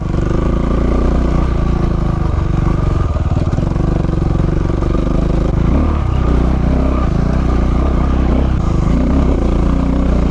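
KTM 690 Enduro's single-cylinder engine running loudly, its revs rising and easing a little.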